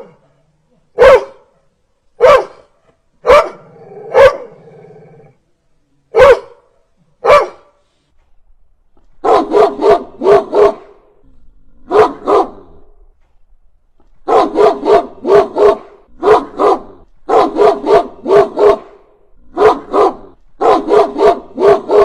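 Dog barking: single barks about a second apart with silence between, then from about halfway through, quick runs of four or five barks in a row.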